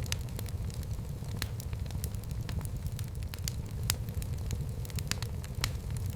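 Fire burning in a fireplace: irregular sharp crackles and pops, several a second, over a low steady noise.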